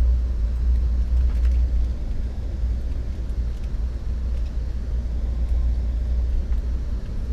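Steady low rumble of a moving passenger train, heard from inside the car, with a few faint clicks.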